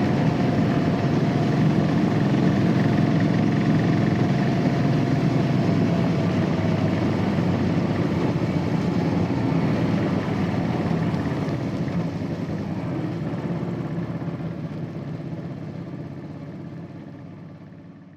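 Royal Enfield Classic 500's single-cylinder engine running on its stock exhaust, a steady low thumping note that fades out over the last several seconds.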